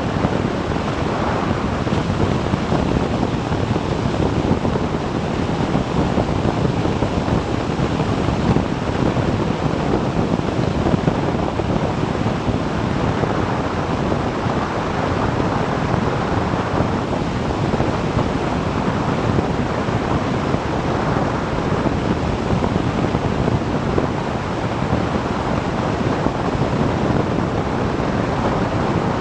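Steady rush of wind on the microphone of a motorcycle riding at road speed, with road noise mixed in. No separate event stands out.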